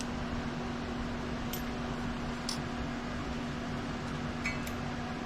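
Steady mechanical hum like a running fan, with one even low tone, and a few faint light clicks spread through it.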